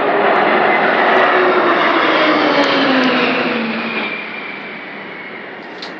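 Military aircraft flying low overhead: a loud engine roar whose tones drop in pitch as it passes, then fading away over the last couple of seconds.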